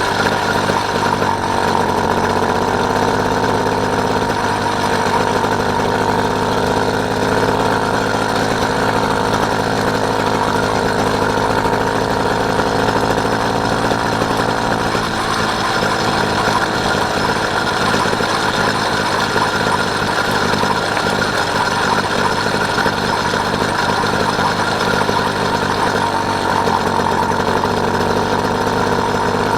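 Small engine of a motorised bike running at a steady speed, its pitch and loudness unchanging.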